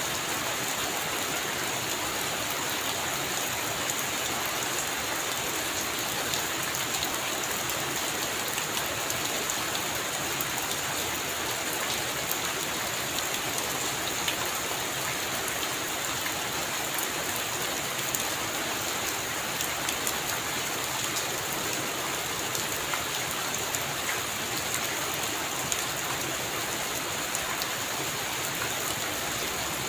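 Heavy rain falling steadily: an even hiss dotted with the ticks of many individual drops, with no thunder.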